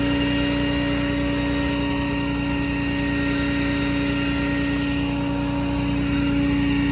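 Steady, unchanging hum of a vehicle engine running, with one strong steady tone over a low rumble.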